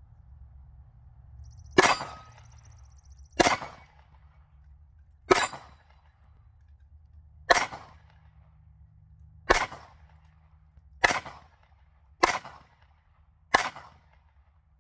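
Eight single shots from a .45 pistol, fired one at a time at an unhurried pace, one to two seconds apart: a full magazine emptied at targets.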